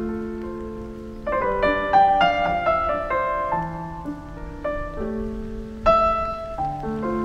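Background piano music: notes and chords struck and left to ring out in a slow melody, with a louder chord about six seconds in.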